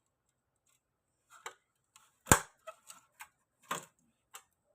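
A handful of short, sharp clicks and knocks, irregularly spaced, with the loudest a little over two seconds in.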